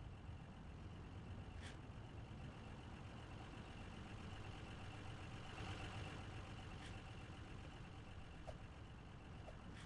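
Faint, steady low rumble of a running vehicle engine, swelling briefly about six seconds in, with a few light ticks.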